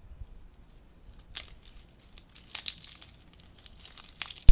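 Dry leaves crinkling and rustling in short bursts as they are crumpled and piled by hand, ending in a sharp knock.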